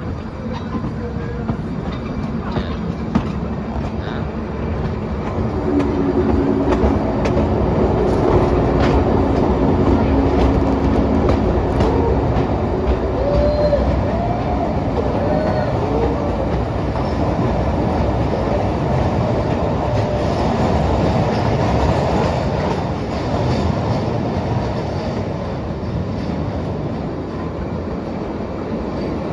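Kalka–Shimla narrow-gauge toy train running on the rails, a steady loud rumble and clatter of wheels and carriages, growing a little louder a few seconds in, with a few short wavering squeals around the middle.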